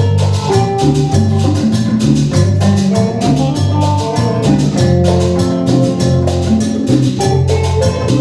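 Live cumbia band playing an instrumental passage, with a bass guitar line, steady percussion on the beat and a melody over the top.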